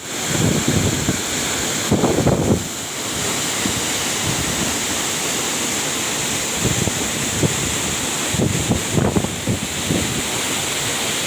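A waterfall's steady, loud rush of falling water. Wind buffets the microphone in low rumbling gusts several times, most strongly about two seconds in and again around nine seconds.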